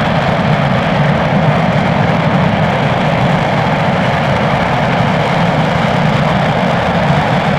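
RS-25 liquid-hydrogen and liquid-oxygen rocket engine firing steadily during a full-duration hot-fire test: a loud, even rush of noise that holds without change.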